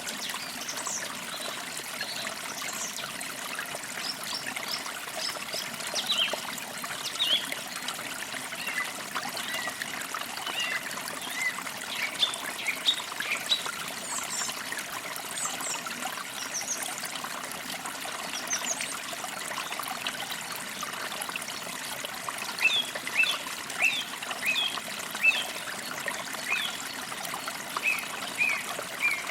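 Forest creek trickling steadily, with small birds chirping in short, quick calls throughout and a run of repeated chirps near the end.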